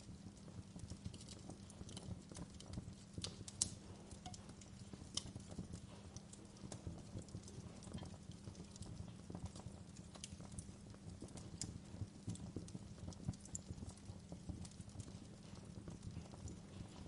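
Wood fire crackling in a fireplace: a steady run of small irregular snaps and ticks, with a few louder pops (the sharpest about three and a half seconds in), over a low steady rumble.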